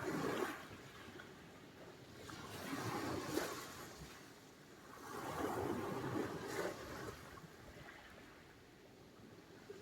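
Sea surf: small waves breaking and washing up the shore, the wash swelling and fading three times.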